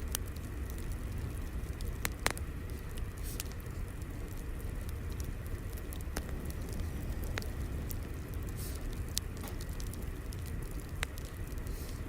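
Fire burning with a steady low rumble and scattered sharp crackles and pops, irregularly spaced a second or more apart.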